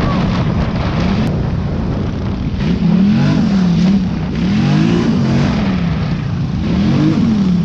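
Dirt bike engine revving on a trail, its pitch rising and falling about three times as the throttle is opened and closed.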